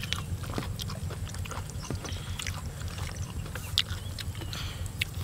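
Close-up eating sounds: scattered small clicks, smacks and crunches of people chewing and biting food, over a steady low rumble.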